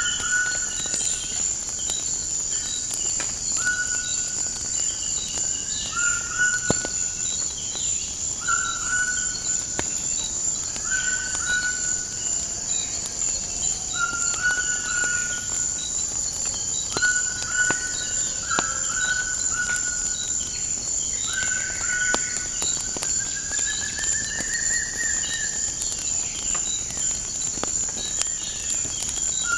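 Insects trill continuously on one high pitch, and a bird sings repeated short whistled notes every couple of seconds, now and then with a longer rising phrase. A few faint clicks are scattered through.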